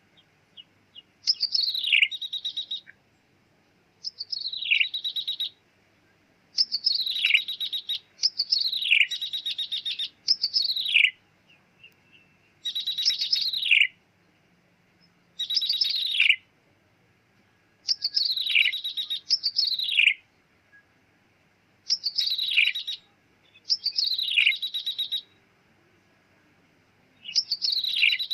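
Ciblek tebu (a prinia) calling: about a dozen short phrases, each a steeply falling mewing note run together with a fast trill, repeated every two seconds or so with brief pauses. This is the lure call used to draw the bird in.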